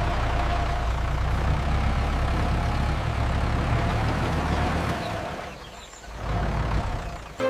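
Steady low engine rumble that fades away about five seconds in and swells again near the end.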